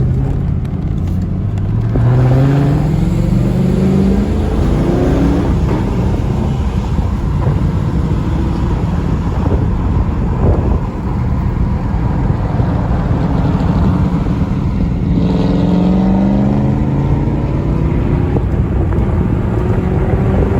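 Ford Mustang 5.0 V8 running loud through its muffler-deleted exhaust, with the engine pitch climbing twice as it accelerates, about two seconds in and again about fifteen seconds in.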